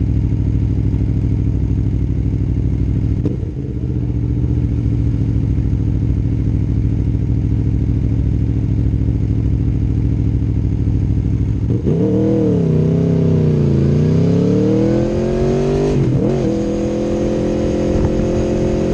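Aprilia Tuono V4 1100 Factory's V4 engine through an Akrapovic exhaust, running steadily at low revs. About twelve seconds in the revs rise, dip and climb again, with a short break near sixteen seconds before settling at a higher, steady pitch.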